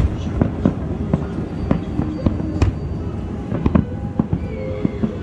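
Aerial fireworks bursting in an uneven run of sharp bangs and crackles, several a second, over a continuous low rumble.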